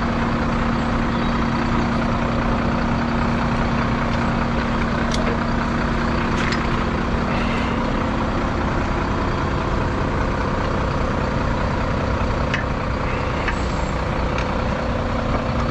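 Heavy recovery truck's engine running at steady revs while driving its winch to pull a lorry out of a ditch, a continuous machine drone with a steady low hum. A few faint clicks come and go over it.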